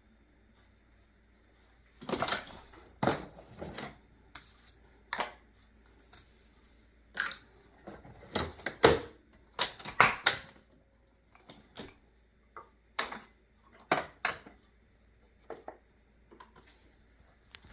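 A run of irregular clicks, clacks and clunks from pod coffee machines being handled, starting about two seconds in, with the loudest knocks near the middle.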